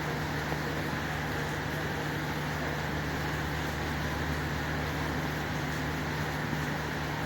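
Steady rain falling, an even hiss with no breaks, over a low steady hum.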